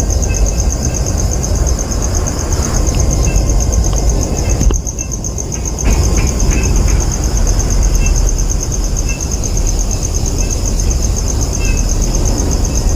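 Outdoor ambience: a steady, rapidly pulsing insect chorus of crickets or cicadas over a low rumble like wind on the microphone, with brief faint high chirps now and then. The sound dips for about a second about five seconds in.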